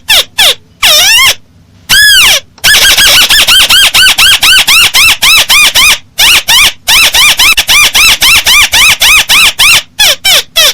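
Paddy-field crake (burung tikusan sawah) calling: a fast series of sharp, rising-and-falling squeaky notes, about five a second, in runs broken by brief pauses about 2 and 6 seconds in. The call is loud and close.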